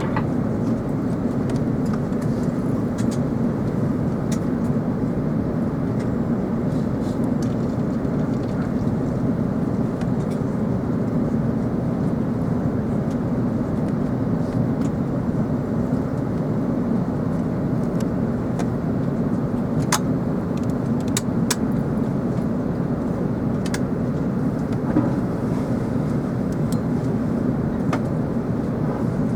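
Cabin noise inside a British Airways Airbus A380: a steady rush of airflow and engine noise that holds level throughout, with a few faint ticks.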